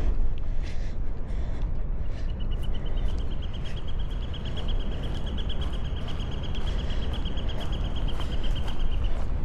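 Wind buffeting the microphone with a steady low rumble, with footsteps crunching on a path about twice a second. About two seconds in, a long, even, high-pitched trill of rapid notes starts, about ten a second, and runs for roughly seven seconds before stopping.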